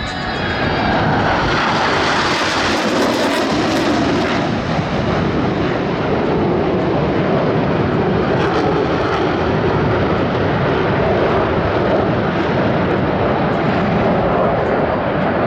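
Jet engines of Blue Angels F/A-18 Super Hornets flying past in formation: a loud rushing jet noise that swells in the first second, is sharpest a few seconds in, and then holds steady.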